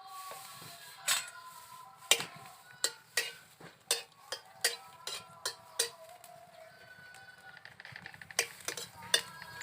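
A series of sharp, hard knocks from cooking work, one or two a second. A hiss begins near the end as frying starts.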